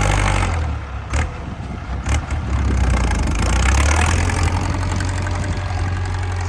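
Ford 6640 tractor's diesel engine running with a loud exhaust. It eases off about half a second in and builds up again after a couple of seconds, with two sharp knocks in between.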